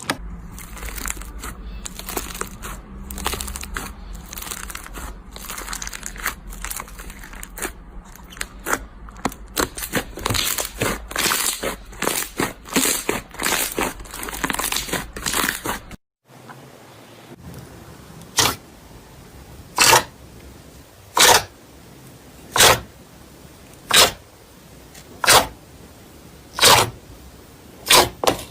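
Slime being worked by hand, crackling and popping densely for the first sixteen seconds or so. After a sudden cut come separate single presses, about eight of them, one every second and a half or so.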